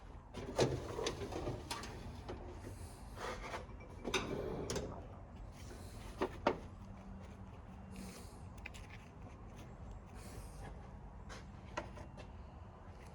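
Hand tools and metal and plastic parts being handled while taking a machine apart: scattered clicks and knocks, with short scraping and rubbing passages.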